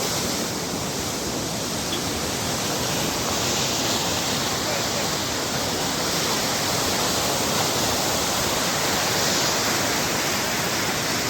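A river in flood after rain, its fast water rushing in a steady, unbroken wash of noise.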